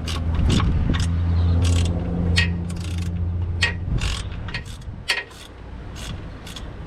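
Hand ratchet with a Torx socket clicking in irregular bursts as it backs out the belt tensioner bolt, with a low steady hum under the first three seconds or so.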